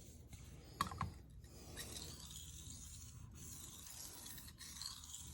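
Knife blade being stroked across a Shapton Rockstar 1000 whetstone: a brief knock about a second in, then a steady high scraping of the edge on the stone with short breaks between strokes.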